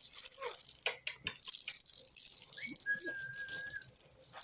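Pet parrot giving one long level whistle, after a short rising note, about three seconds in, over a constant high rattling clatter with many small clicks.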